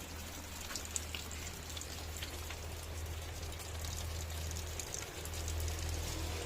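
Steady rain falling, with scattered drops ticking, over a low rumble.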